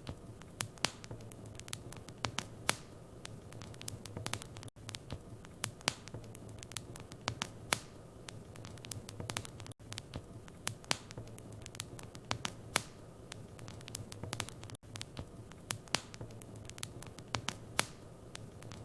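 Wood fire in a fireplace crackling: irregular sharp pops and snaps, several a second, over a low steady hum. The sound drops out briefly about every five seconds.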